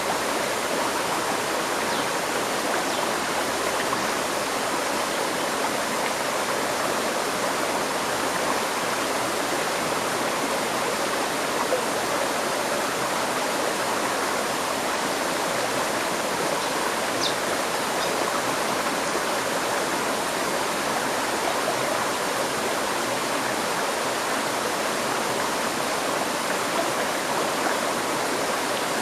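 River stream flowing over stones, a steady, even rushing and babbling of water.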